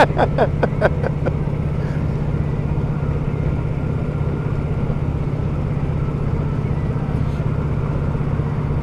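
Harley-Davidson touring motorcycle's V-twin engine running steadily while the bike cruises at a slow, easy pace.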